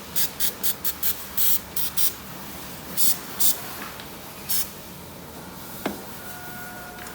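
A string of short hissing spray bursts, about a dozen of them, closely spaced in the first two seconds and then sparser, each lasting a fraction of a second. A faint click and a faint steady tone follow near the end.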